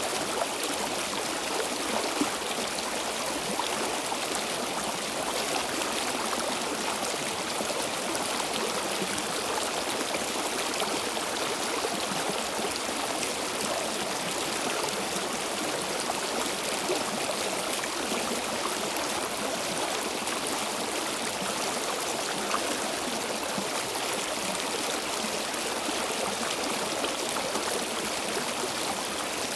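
Stream water flowing steadily over rocks, a continuous even rush with small splashes and trickles.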